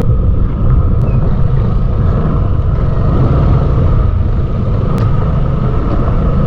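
Steady, loud rumble of riding on a motorcycle, with engine and wind noise heavy in the low end and a couple of faint clicks.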